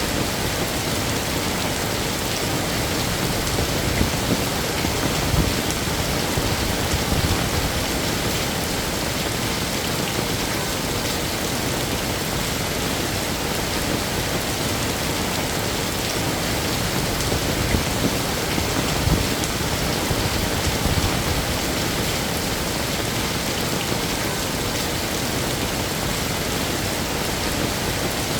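Heavy rain falling steadily, a dense even hiss. It swells twice into stretches of low rumbling, once a few seconds in and again past the middle.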